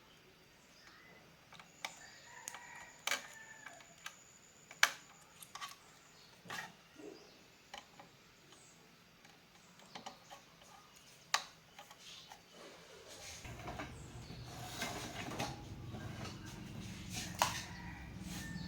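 Scattered sharp clicks and taps from hands-on repair work, a few seconds apart, with a steady low hum coming in about two-thirds of the way through.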